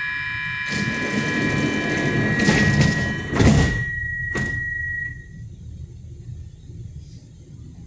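Stockholm metro train's door-closing warning: a steady high beep sounds while the sliding doors run shut. The doors close with a heavy thud about three and a half seconds in, followed by a sharper click a second later, and the beep stops about five seconds in.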